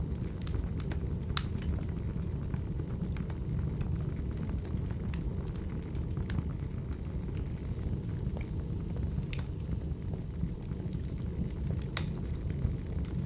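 Wood fire burning: a steady low rumble with irregular sharp crackles and pops, a few louder pops about a second and a half in, past nine seconds and near the end.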